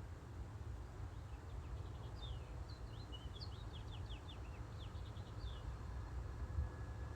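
A bird twittering: a quick run of short, high, falling chirps lasting about four seconds, over a steady low rumble.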